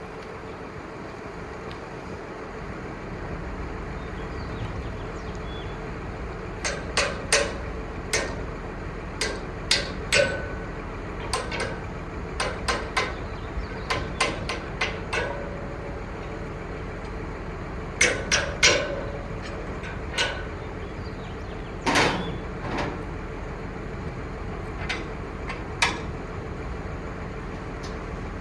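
Steady diesel engine running under a series of sharp metallic knocks and clanks, some in quick pairs, which begin a few seconds in and die away near the end.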